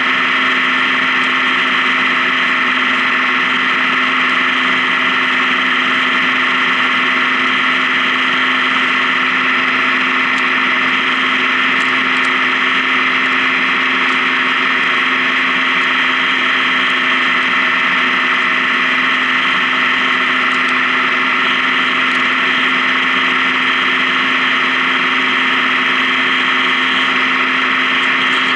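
Honda Gold Wing touring motorcycle cruising at a steady speed: the engine runs evenly, with no change in revs, under a steady rush of road noise.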